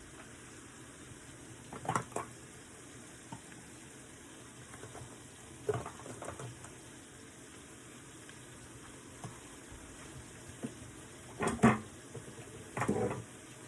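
Mushrooms sizzling quietly in a frying pan, with a few short knocks and clatters of kitchen utensils or containers; the loudest clatter comes near the end.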